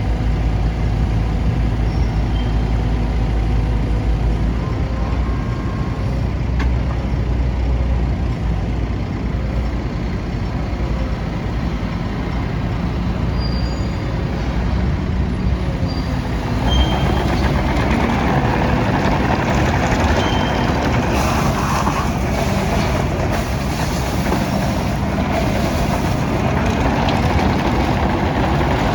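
Bobcat 341G midi excavator's diesel engine running steadily. From a little over halfway through, the machine's sound gets louder and fuller.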